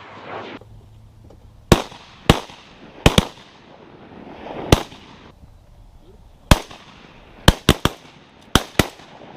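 A rapid string of shotgun shots, about eleven sharp reports, several only a fraction of a second apart near the end, each with a short echoing tail.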